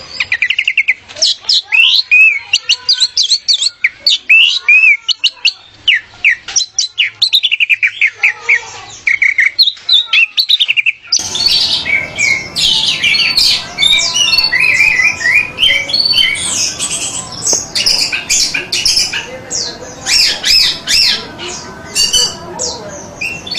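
Orange-headed thrush (anis merah) song: fast, varied phrases of sweet and scratchy notes in quick succession. About halfway through it cuts abruptly to another recording with denser song over more background noise.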